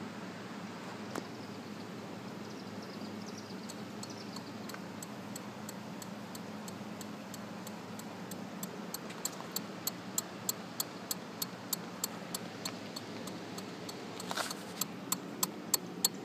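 Kawasaki Z750S failing to start: over a steady low hum, a regular clicking starts about halfway through, about two to three clicks a second, growing louder toward the end, with a short louder burst near the end. The bike starts fine when jumped from a car.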